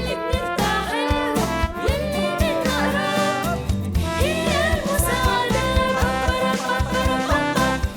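Upbeat children's song: singing over instrumental backing with a steady beat.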